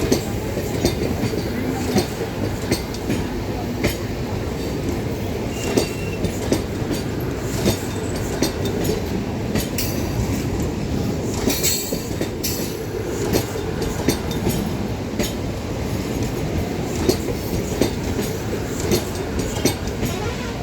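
Freight train rolling past on the rails: a continuous rumble with frequent clicks as the wheels cross rail joints, and a brief high hiss about twelve seconds in.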